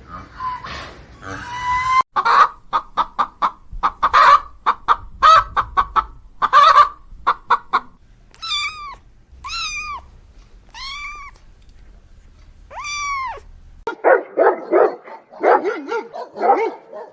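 Domestic animal calls in quick succession. First a run of short, sharp hen-like clucks. Then about halfway through come five drawn-out meows that each rise and fall in pitch, and near the end a denser tangle of lower calls.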